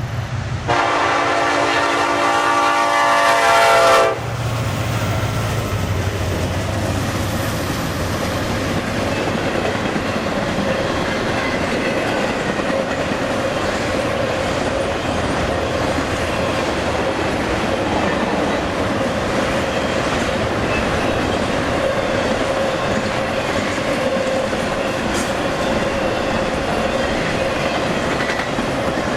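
Freight train locomotive sounds its multi-tone horn in one blast of about three seconds that cuts off sharply. The locomotive's engine rumbles past, then a long string of trailer and container flatcars rolls by steadily with the clickety-clack of wheels on rail joints.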